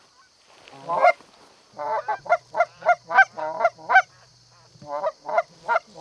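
Canada geese honking and clucking in a quick run of short calls: one about a second in, a rapid burst of about eight, then a few more near the end.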